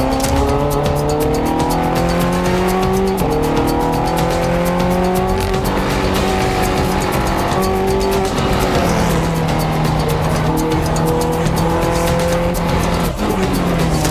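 Ferrari F430 Scuderia's V8 heard from inside the cabin while being driven hard on a race track. The engine note climbs and steps down as it is revved through the gears, with a sharp break about thirteen seconds in.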